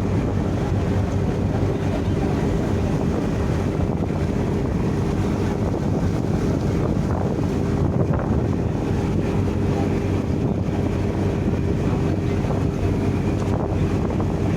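Ship's engine running with a steady drone, with wind buffeting the microphone.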